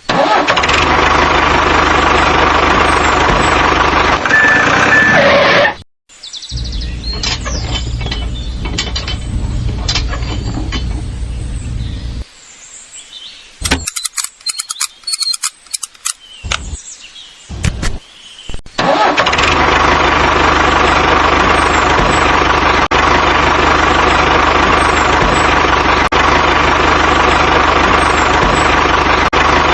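A small motor running steadily. It cuts out about six seconds in and hums more quietly for a while, then stops for several seconds, leaving only scattered clicks and knocks, before running steadily again for the rest of the time.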